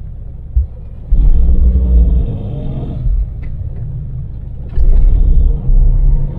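Cabin rumble of a Daewoo Damas mini van driving at speed: its small LPG three-cylinder engine and road noise. The low rumble swells sharply louder about a second in and again near the end.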